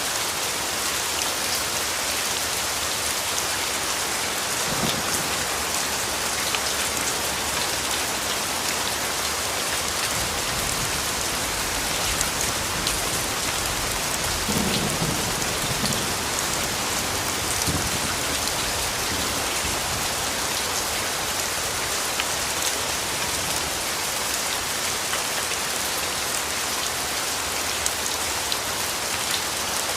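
Steady rainfall with the fine ticks of single drops throughout. About halfway through, a low rumble of distant thunder swells and fades.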